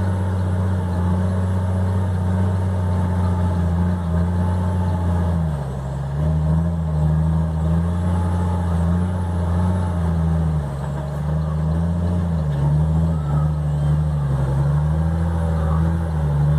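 Toyota SW4's engine running hard under load while pulling a truck's trailer through mud. The revs hold steady at first, then fall and rise again and again from about a third of the way in.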